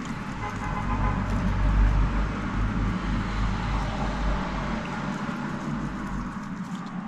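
A deep rumble that builds, peaks about two seconds in and fades away about six seconds in, over a steady background hiss.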